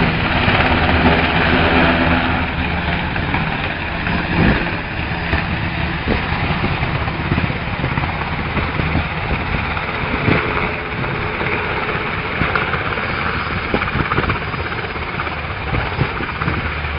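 Helicopter noise: a rough rushing din over a low engine hum, with a couple of sharp knocks.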